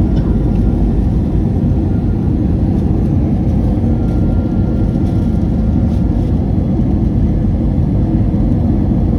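Airliner cabin noise heard from a passenger seat: a steady, dense low drone of engines and airflow, with a faint thin whine in the background.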